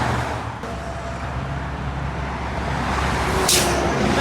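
Road traffic noise: a steady low vehicle rumble, with one short sharp noise about three and a half seconds in.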